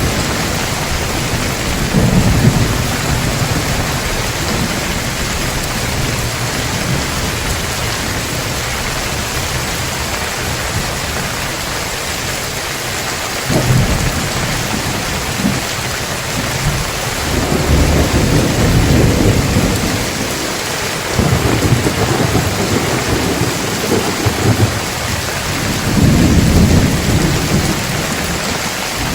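Heavy rain falling steadily, with thunder rumbling low again and again in swells, the strongest near the start, midway and near the end.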